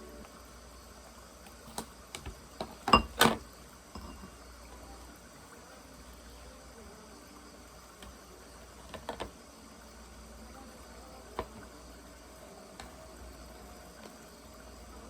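Scattered kitchen clatter: sharp knocks and clicks of dishes or utensils, the two loudest close together about three seconds in and a few fainter ones later, over a steady faint wash of water sound.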